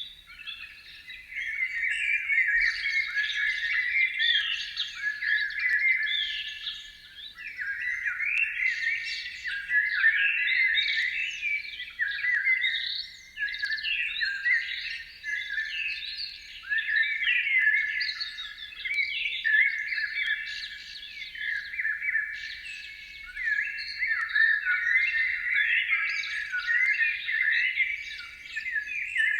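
Birdsong: a dense, unbroken run of high chirps, trills and quick rising and falling notes.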